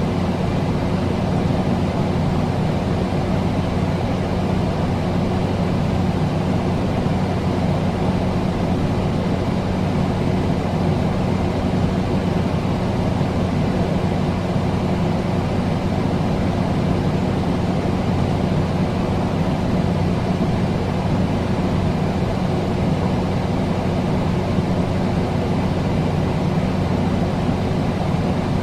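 A steady droning noise with a low hum under a hiss, unchanging, like a running engine or machinery.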